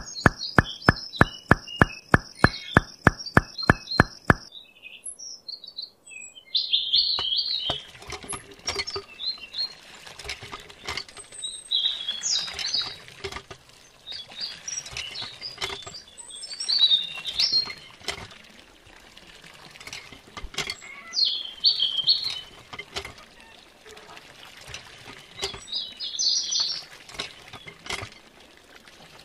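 Birds chirping in repeated short phrases over the steady patter of a thin stream of water falling from a miniature hand pump's spout into a small trough. The first four seconds hold a rapid, even ticking, about four ticks a second, under a steady high tone.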